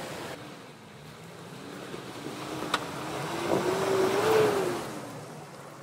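Off-road Jeep Cherokee's engine revving as it drives up out of a stream and past, its pitch climbing and the sound loudest about four seconds in, then fading away. One sharp click a little before three seconds in.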